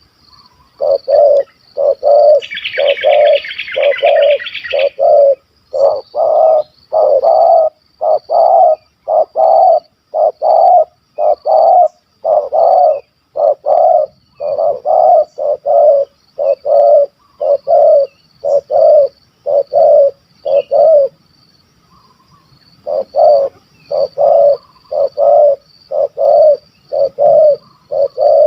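Spotted dove (tekukur) cooing: a long series of loud, low, evenly repeated coos, broken by a pause of about two seconds near the end. A brief buzzing trill comes in about two seconds in, over a faint steady high-pitched tone.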